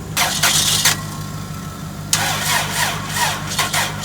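A car's starter cranking a freshly swapped-in used engine in two bursts, a short one and then a longer one of about two seconds. The engine is turning over but not catching. Under it runs a steady low engine idle.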